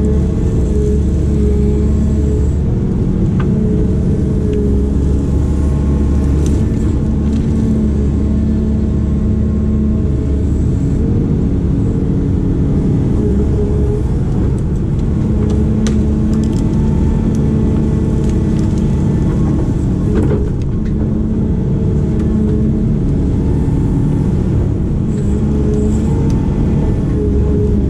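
Diesel engine of a heavy digging machine running steadily with a low, even rumble that swells and eases a little at times, with scattered short clicks and knocks.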